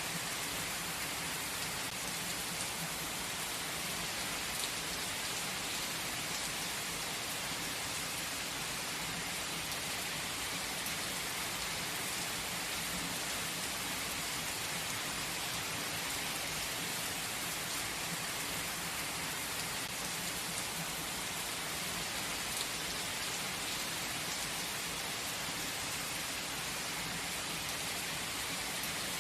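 Steady gentle rain falling, an even hiss of many drops with occasional faint individual drop ticks.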